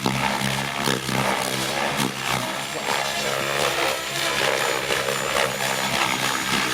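Radio-controlled model helicopter flying 3D aerobatics: its rotor blades and motor running continuously.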